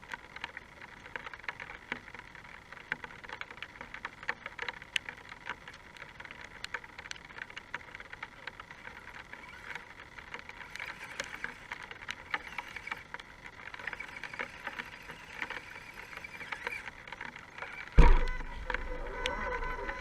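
Rain pattering, with many small scattered ticks over a steady hiss. A loud thump comes near the end.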